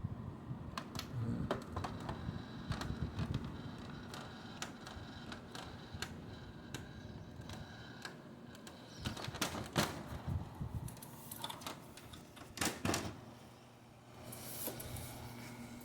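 Irregular clicks and light knocks of hands working on a Samsung air conditioner's plastic casing, with a few longer rasping sounds about ten and thirteen seconds in, over a faint low hum.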